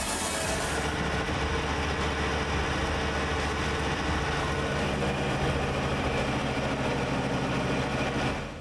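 A heavy machine's engine running steadily with a strong low hum. The sound fades out near the end.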